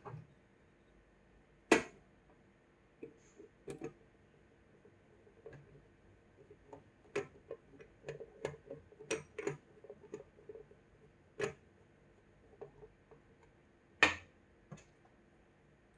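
Small hard objects being handled on a workbench: irregular clicks and taps, with a louder knock about two seconds in and another near the end, and a busy run of clicks in the middle.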